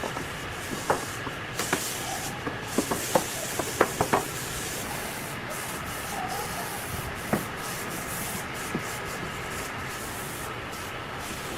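Steady rubbing noise with scattered light clicks and knocks, bunched in the first four seconds and fewer after.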